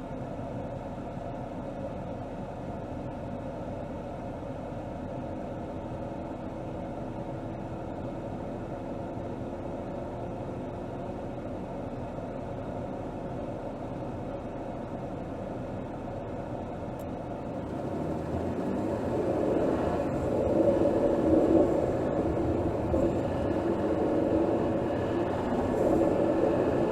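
Mercedes-Benz GLS 450's 3.0-litre turbocharged inline-six, heard from under the hood, running steadily and quietly, then growing louder from about 18 seconds in as it takes on more throttle.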